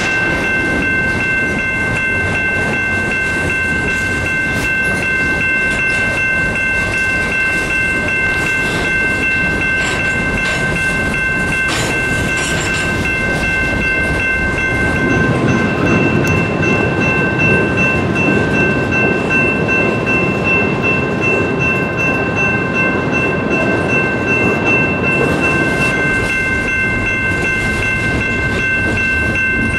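Freight train of covered hoppers, tank cars and gondolas rolling past: steady wheel rumble and clickety-clack over the rail joints, with a steady high-pitched squeal over it. The rumble grows louder for about ten seconds midway.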